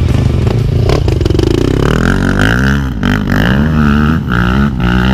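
Off-road motorcycle engine revving up and down repeatedly, the pitch climbing and dropping every second or so as the throttle is worked.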